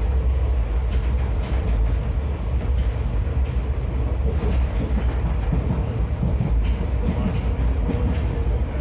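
Maurya Express passenger train running on the rails: a steady low rumble with faint rail clicks.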